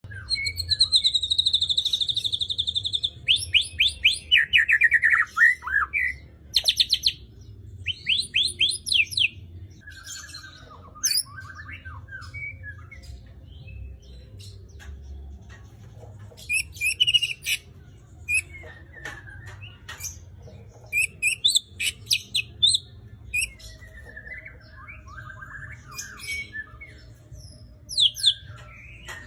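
White-rumped shama (murai batu) in full song: bursts of varied phrases made of clear whistles, fast trills and quick runs of falling notes, with a quieter stretch about halfway through. The bird is singing strongly, in the form wanted for a songbird contest.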